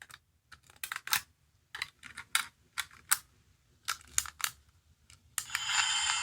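A series of irregular, sharp plastic clicks from handling and pressing a small sound-making capsule toy. Near the end, the toy starts playing a loud, bright electronic tune.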